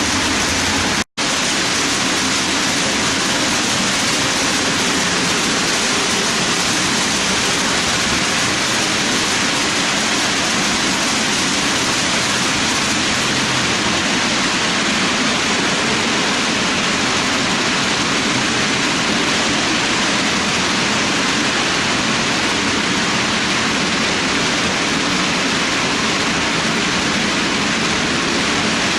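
Steady rushing noise of a long string of HO-scale model freight cars rolling over the track, with a momentary dropout about a second in.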